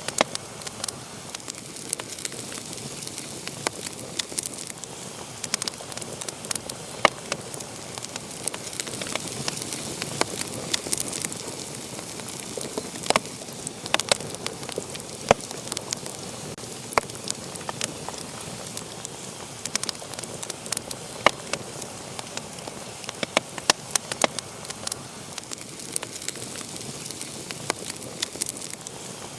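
Wood fire crackling in a fireplace: a steady soft hiss of flames with frequent sharp pops and snaps at irregular intervals.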